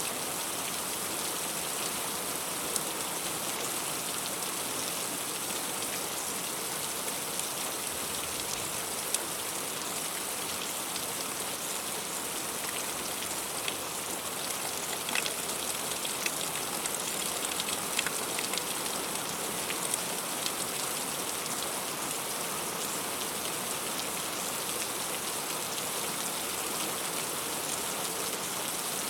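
Heavy rain falling steadily, with scattered louder single drop strikes that come a little more often mid-way through.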